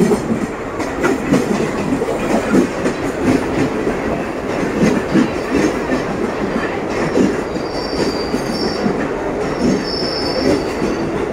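Mumbai suburban local electric train pulling in along the platform, its coaches rolling past with steady running noise and repeated clacks of wheels over rail joints. A high wheel squeal comes and goes in the last few seconds.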